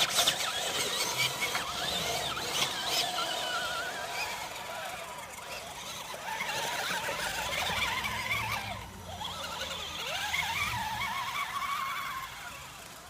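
Radio-controlled truck's motor whining, its pitch rising and falling over and over as the throttle is worked.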